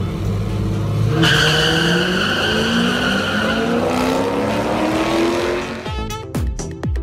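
A drag-racing car launching hard down the strip, its engine note climbing steadily in pitch for about four seconds as it accelerates away.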